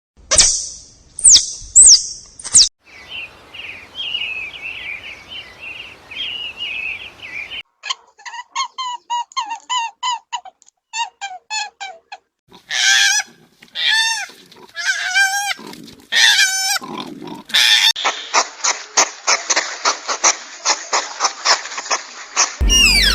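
A run of different animal calls, one kind after another. First come a few sharp, high squeals, then steady chirping. After that there are rapid pulsed calls, then loud calls that fall in pitch, and near the end a fast, even trill of about nine pulses a second.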